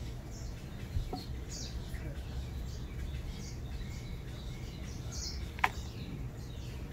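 Small birds chirping in the background, short high chirps every second or so, over steady low outdoor noise. A light tap comes about a second in and a sharper, louder click near the end.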